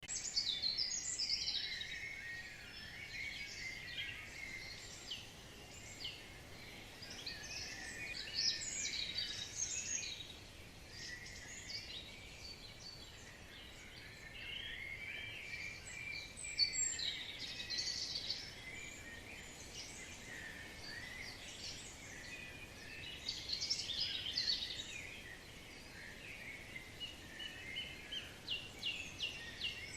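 Several birds singing at once: a dense chorus of high chirps and trills, with louder flurries every several seconds.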